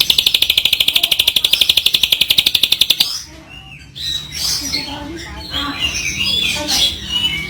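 A wild bird calling: a loud, rapid, buzzy trill held for about three seconds, then after a short pause a run of varied chirps and whistles.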